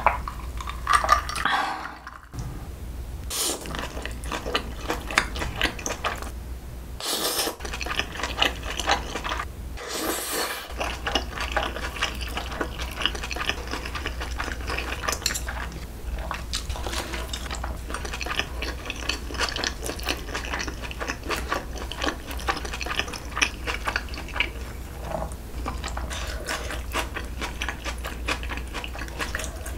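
Close-miked eating sounds: a few gulps of a drink at the start, then steady wet chewing of noodles, braised pork trotters and crisp lettuce wraps, a dense run of small smacking clicks. Twice it cuts out briefly.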